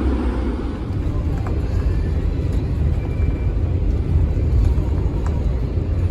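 Shuttle bus driving, heard from inside the cabin: a steady low engine and road rumble.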